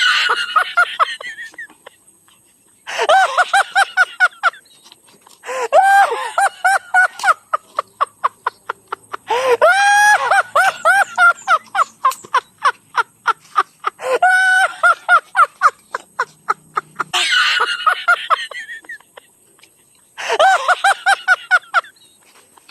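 High-pitched laughter in repeated bursts, each a quick run of 'ha-ha-ha' pulses; the bursts sound much alike.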